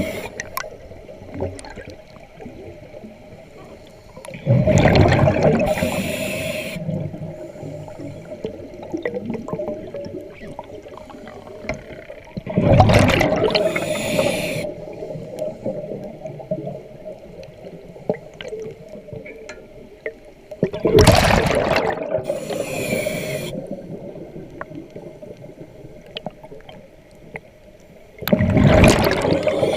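A diver breathing underwater through a regulator. Four breaths come about eight seconds apart, each a loud gush of bubbles with a short hiss just after, over a steady hum.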